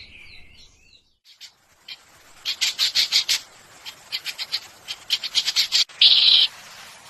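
A songbird calling: a warbling whistled phrase, then after a short pause quick bursts of sharp, dry chattering notes, ending with a half-second buzzy note.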